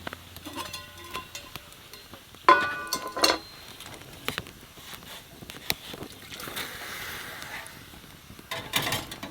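Metal camp cookware being handled: two bright, ringing clinks about two and a half and three seconds in, among scattered small knocks and rustles.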